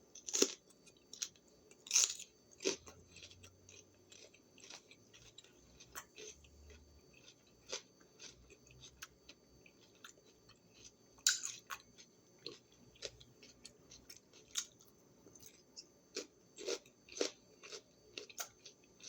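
A person biting and chewing a raw green bell pepper snack: irregular crisp crunches and mouth clicks, with a few louder bites near the start and about eleven seconds in.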